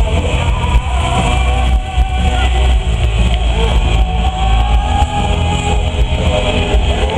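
Loud rock music with electric guitar and heavy, steady bass.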